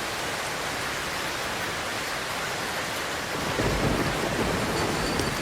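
A steady, even hiss, joined by a louder low rumble about three and a half seconds in.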